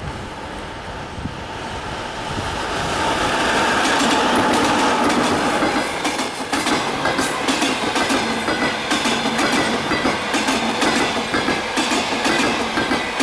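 Passenger train hauled by an EP2K electric locomotive passing close by. It grows louder over the first few seconds, then its wheels set up a fast, continuous clickety-clack over the rail joints.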